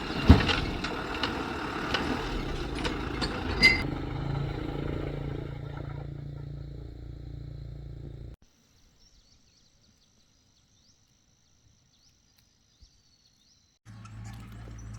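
A vehicle engine running steadily, with a few sharp clanks and knocks over it, the loudest just after the start. Partway through the sound cuts off abruptly into near silence, and a steady low hum starts again near the end.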